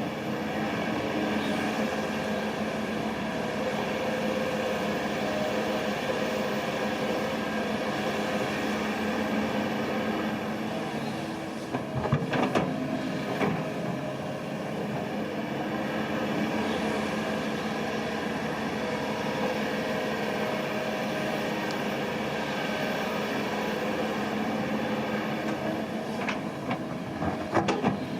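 Heavy earthmoving machine's diesel engine running steadily, with a few sharp metallic clanks about twelve seconds in and again near the end.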